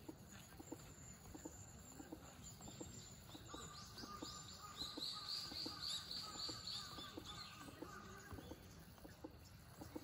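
A bird calls in a fast run of short repeated high notes, about four a second. The run starts about three and a half seconds in and stops about eight and a half seconds in, over faint outdoor background noise.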